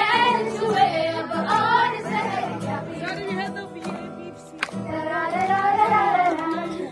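Informal group singing of a Hindi song over acoustic guitar, with sung phrases, a brief lull in the middle, then singing again.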